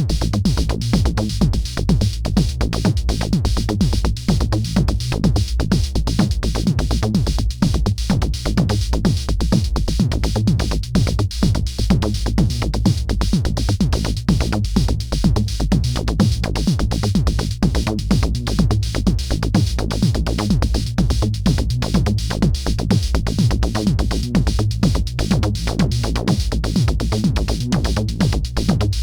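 Techno jam played on a homemade DIY modular synthesizer, its raw sound with no effects: a steady, fast electronic drum-machine beat over a heavy bass line.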